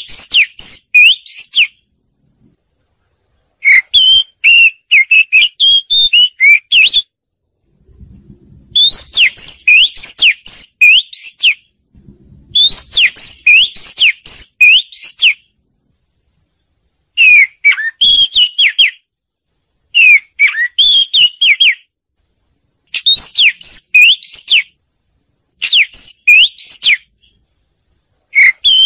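Oriental magpie-robin singing: loud phrases of rapid, sweeping whistled notes, about eight phrases, each a couple of seconds long and separated by short silences. This is a lure recording used to trap birds or set caged birds singing.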